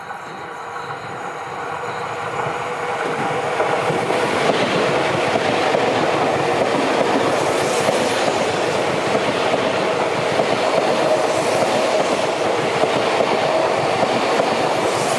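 Seibu Railway electric train running, growing louder over the first four seconds and then holding steady, with a steady whine over the running noise.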